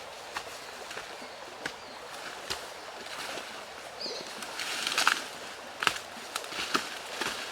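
Steady rush of river water with scattered light knocks and clicks, and a short high chirp about four seconds in.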